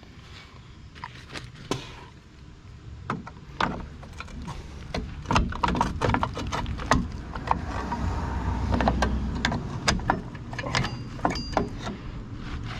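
Irregular clicks, clinks and knocks of hand work on a truck's drum brake hardware, as the shoe clamps and springs are pulled and handled, with a low rumble swelling through the middle.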